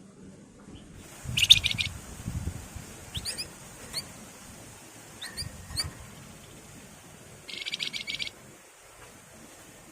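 Wergan jawa (flamboyan) songbird singing: two short buzzy rattling bursts with several brief thin rising whistles between them. Low thumps come along with the first burst and again near the middle.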